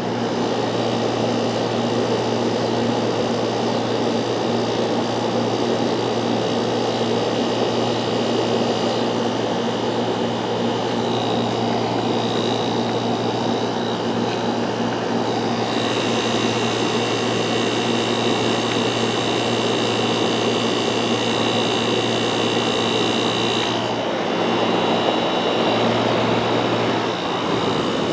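Fedders 5800 BTU window air conditioner running: a steady rush of fan air over the low hum of its Rotorex rotary compressor. A faint high whine comes in partway through and stops a few seconds before the end.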